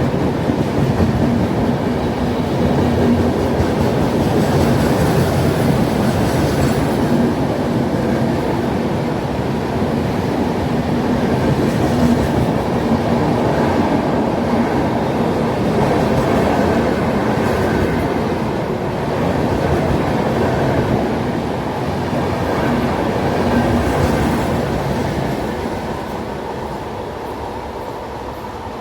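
A train running past on the track, a steady rumble of its wheels on the rails that eases off over the last few seconds.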